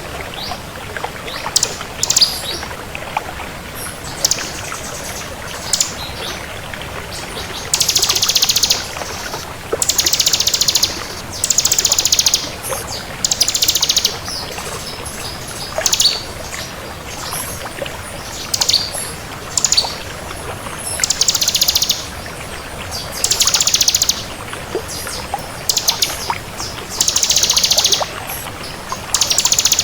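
Bar-winged prinia (ciblek) singing in full voice: rapid, high, buzzy trills about a second long, repeated every couple of seconds over a steady background hiss.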